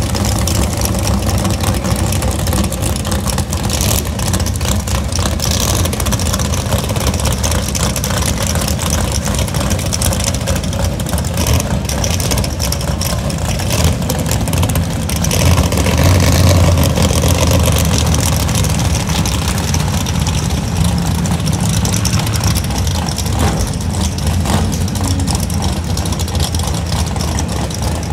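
Drag cars' engines running loud and rough at the starting line, idling with revs, and louder for a couple of seconds about halfway through.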